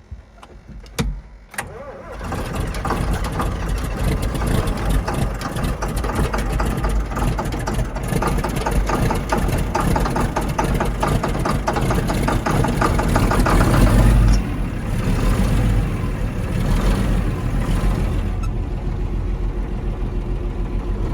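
John Deere 8640's six-cylinder turbo diesel cold-started without ether or block heater at about 30 °F, heard through the open cab door: a brief crank, then the engine catches about two seconds in and keeps running, easing back a little about two-thirds of the way through.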